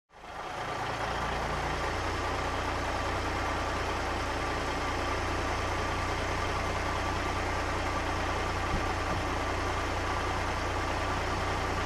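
A car engine idling steadily, a low even hum that fades in over about the first second.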